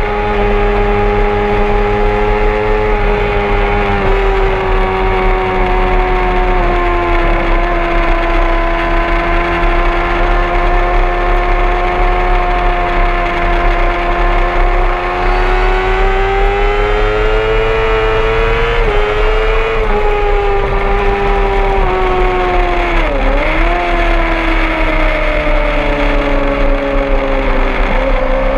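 Honda CBR600RR's inline-four engine running hard at high revs, its pitch sagging and rising slowly as the throttle is held and eased through corners. About three-quarters of the way through the revs drop sharply and climb straight back, with a steady low rush of wind underneath.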